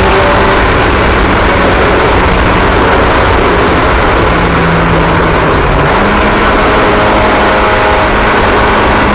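Several small racing engines running at once, a steady loud engine drone with overlapping pitches, one of them rising in pitch about six seconds in.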